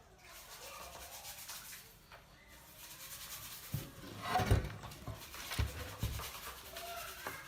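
Rubbing and scrubbing on a carburetor part being cleaned, with a few knocks about halfway through.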